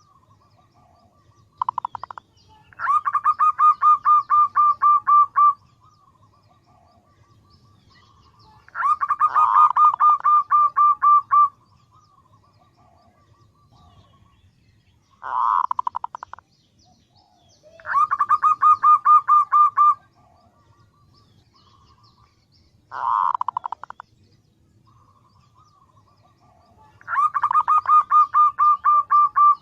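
Female zebra dove (perkutut) calling: rapid runs of short, even, pulsed coos. Four long runs of about two and a half seconds alternate with three shorter ones of about a second, with fainter calls in between.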